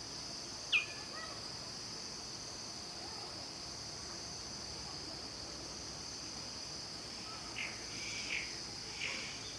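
Steady high-pitched chorus of crickets or other insects, with a single sharp, downward-sliding bird call about a second in, the loudest sound, and a run of short bird calls near the end.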